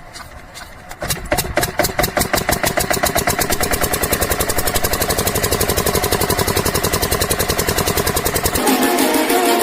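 Old irrigation pumping-set engine starting about a second in and then running steadily with a rapid, even beat. Music comes in near the end.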